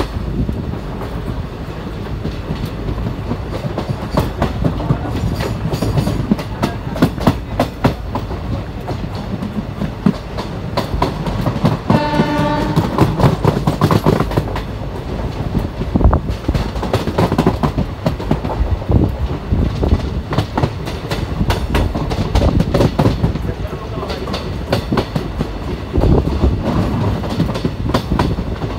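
Train running along the track, heard from a coach window: steady rumble and wind noise with wheels clicking over rail joints. About twelve seconds in, the train horn sounds once for about a second and a half.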